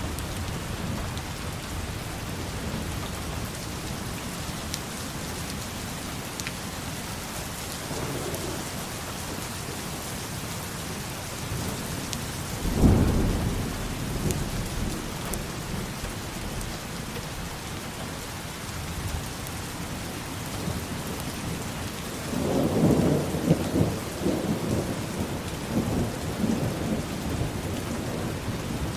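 Steady heavy rain falling, with a sudden clap of thunder about a third of the way through and a longer roll of thunder rumbling for several seconds near the end.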